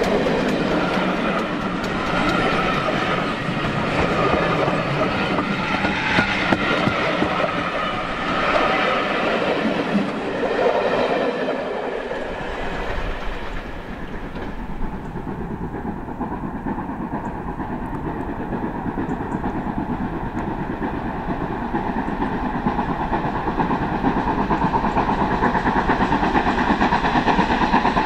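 Passenger coaches rolling past close by, their wheels clattering over the rail joints. About halfway through, the sound gives way to a steadier, lower running sound that grows louder toward the end, as another train approaches.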